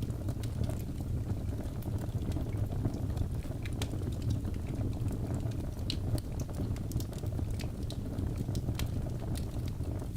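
Birch logs burning in a fireplace: a steady low rumble of flame with frequent small sharp crackles and pops throughout.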